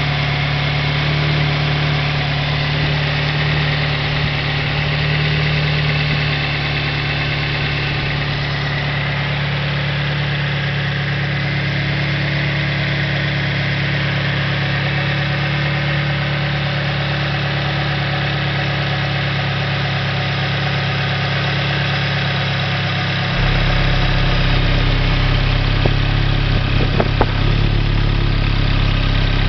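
Toyota 1NZ-FE 1.5-litre inline-four engine idling steadily. About 23 seconds in, its low hum steps up and grows louder and stays that way.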